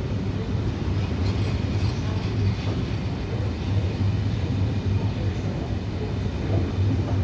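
Passenger train coming into the station platform: a steady, loud low rumble.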